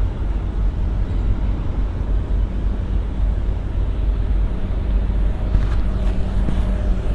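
Steady low rumble of outdoor vehicle and traffic noise, with a faint hum coming and going from about two and a half seconds in.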